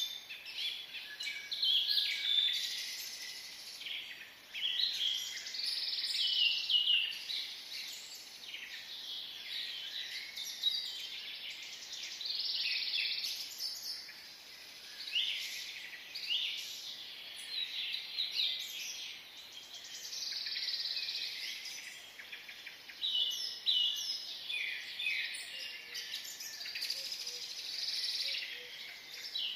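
Many small birds chirping, their short calls overlapping without a break.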